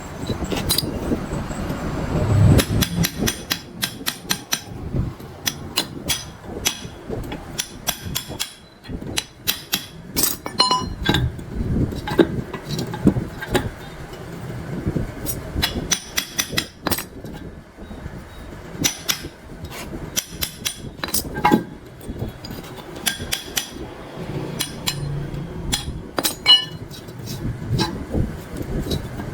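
Irregular metal knocks, taps and clinks of hand tools working on steel machine parts, coming every second or so with gaps.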